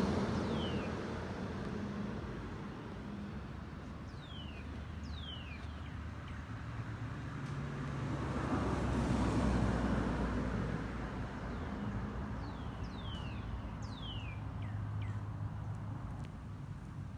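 Outdoor birds calling with short notes that each slide down in pitch, in clusters near the start, around five seconds in and again around thirteen to fifteen seconds in, over a low steady background. About halfway through, a passing vehicle swells and fades.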